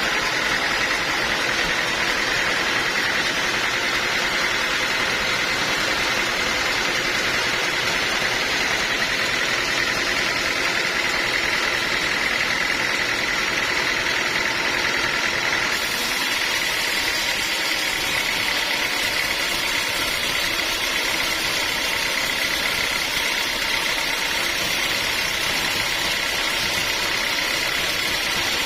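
Sawmill machinery running steadily, a loud mechanical drone with a steady high whine.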